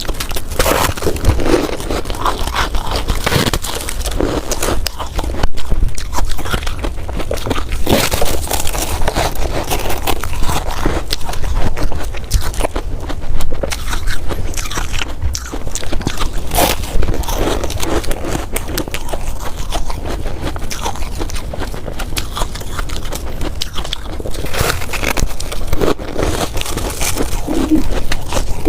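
Ice being bitten and chewed: a loud, dense, irregular run of crunches and crackles.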